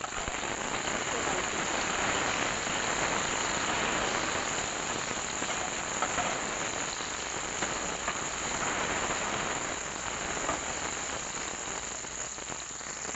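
Raw banana pieces sizzling as they shallow-fry in hot oil in a kadhai, a steady crackling hiss, while a spatula turns them.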